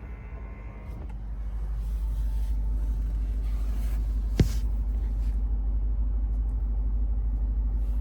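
Low, steady rumble from a 2024 Lexus IS 500 F Sport on the move, with its 5.0-litre V8, building over the first couple of seconds, then holding. One sharp click comes a little over four seconds in.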